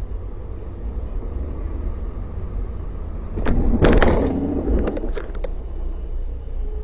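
Steady low road and engine rumble of a moving car. About three and a half seconds in comes a sudden loud impact with a clattering, rattling tail lasting about a second, then a few lighter knocks.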